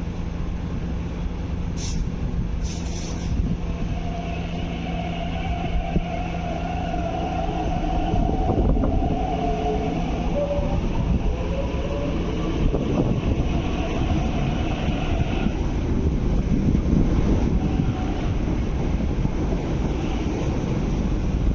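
MTR East Rail Line R-train electric multiple unit pulling out of the platform. Two short high clicks come about two seconds in, then the electric traction motors whine as it gets under way. A broad rumble of wheels on the rails grows toward the end.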